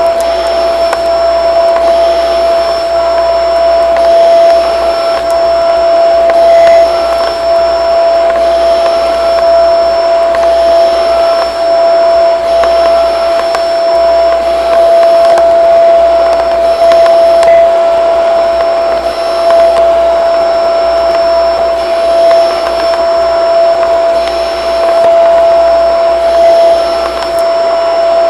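Shark vacuum cleaner running continuously, a loud steady motor whine with airflow rush, its level wavering slightly as it is pushed around.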